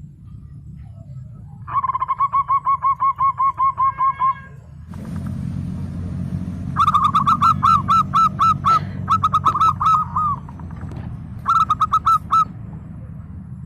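Zebra dove (perkutut) cooing in rapid runs of short, evenly repeated notes: a softer run about two seconds in, then louder runs from about seven seconds and again near the end. A steady low hum lies underneath.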